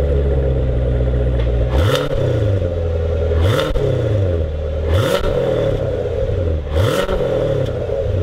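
Chevrolet C7 Corvette Grand Sport's 6.2-litre LT1 V8 idling through its stock NPP variable exhaust, blipped four times. Each rev rises quickly and falls back to a steady idle within about half a second.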